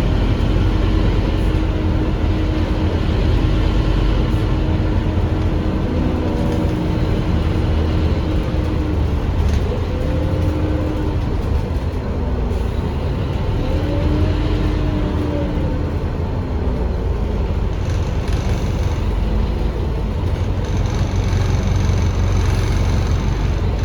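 Scania K310UA articulated bus heard from on board, its Scania DC9 diesel and ZF Ecomat automatic driveline running with a steady low rumble. A whine holds steady for the first several seconds, then rises and falls in pitch a few times.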